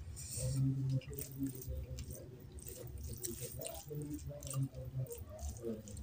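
Close-miked eating: chewing and wet mouth smacks, with irregular squishing as rice and curry are mixed by hand.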